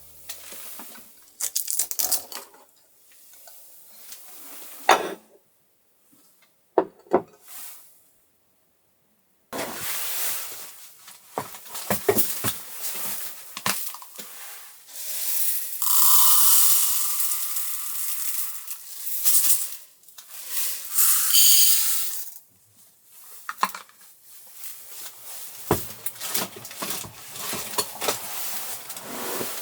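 Scattered clinks, knocks and clatter of dishes and utensils being handled, with a few longer stretches of hiss, the longest around the middle.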